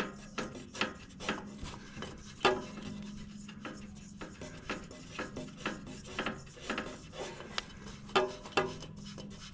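Hand spinning a new spin-on oil filter onto its threaded mount on the mower's engine: a string of short, irregular rubbing scrapes, one after another, as the filter turns.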